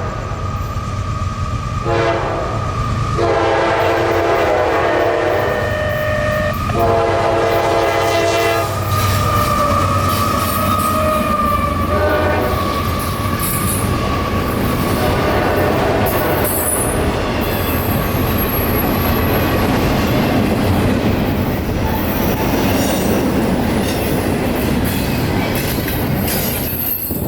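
CSX intermodal freight train passing close by. The locomotive horn sounds several blasts in the first nine seconds, the longest about three seconds. The train then rolls past with a high wheel squeal around ten seconds in and a steady rumble and rattle of the cars.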